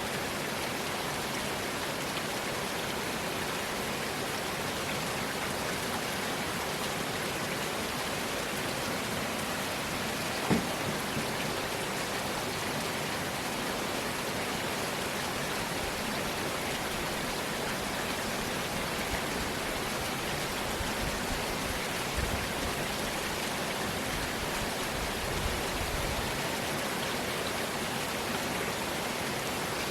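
Steady rainfall in a rainstorm, an even hiss of drops on surfaces. One sharp tap stands out about a third of the way in.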